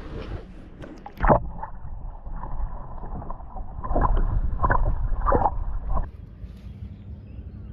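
Water splashing at a kayak. A sharp splash comes about a second in, then four splashes in a steady rhythm, well under a second apart.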